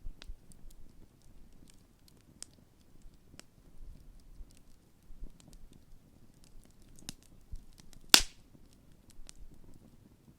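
Large wood campfire burning with scattered crackles and small pops, and one loud sharp pop about eight seconds in, over a faint low rumble.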